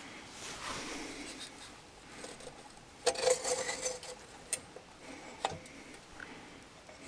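Handling noises: soft rustling, a short clattering burst about three seconds in, then a few separate sharp clicks.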